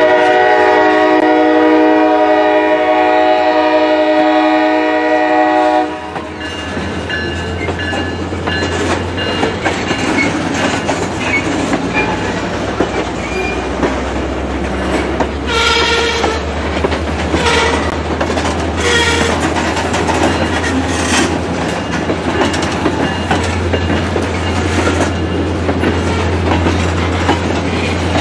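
A train horn sounds one long chord for about six seconds. Then a passing train keeps up a steady low rumble, with wheels clacking over rail joints and a few sharper knocks in the middle.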